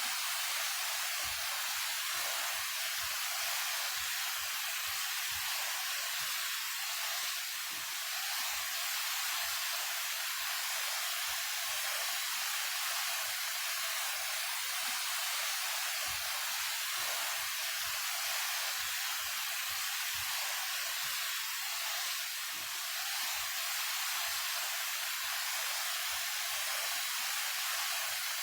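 Daehye Falls, a 28 m waterfall, pouring steadily: a continuous rush of falling water, heard as an even hiss with almost no bass.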